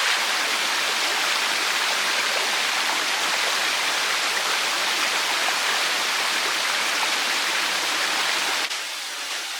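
Running water rushing steadily, a dense even hiss; near the end it drops suddenly to a quieter level.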